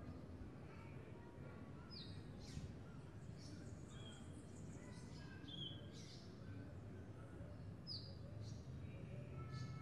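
Faint birds chirping, short high calls every second or two, over a steady low hum.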